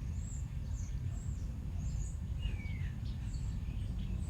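Small birds chirping with short, high calls scattered throughout, including one longer descending whistle about halfway through, over a steady low rumble.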